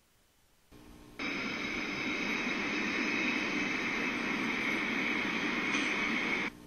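Loud, steady roar of high-pressure industrial venting, like steam or gas blowing off. It cuts in sharply just over a second in and cuts out shortly before the end.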